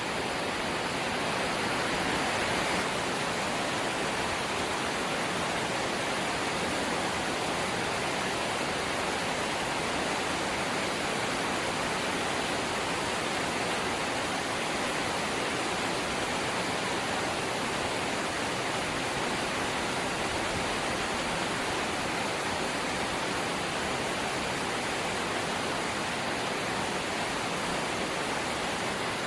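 Light rain falling steadily, an even hiss of drops with no pauses.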